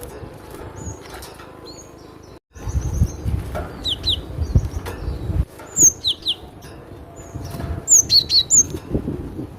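Cinereous tit (glatik batu) calling: short, sharp, downward-sweeping chirps in quick pairs and triplets, over a low rumbling background noise.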